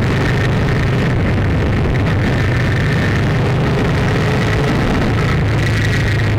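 A steady, loud low engine drone with a faint high whine held over it, unchanging throughout.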